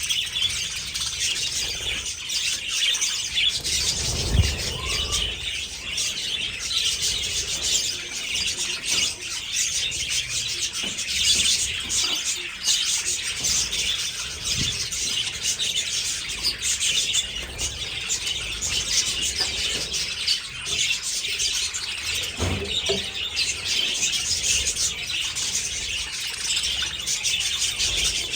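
A flock of budgerigars chattering and chirping nonstop in a dense, high-pitched din. A couple of dull knocks sound about four seconds in and again near the end.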